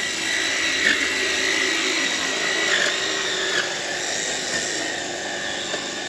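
Motor of a power tool for cutting shrubs running steadily at high speed, its pitch dipping briefly three times as it bogs down under the load of the cut.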